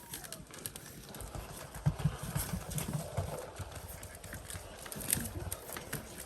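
Puppies scrambling after motorised self-rolling toy balls on the floor: irregular light taps, scratches and soft thumps.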